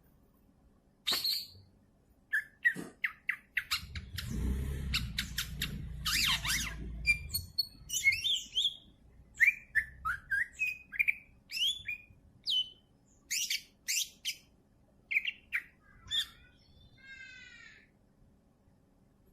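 Green leafbird (cucak ijo) calling in a rapid run of sharp chirps, squawks and short whistled notes. A low rumble sits under the calls from about four to seven seconds in. A short buzzy rattle comes near the end.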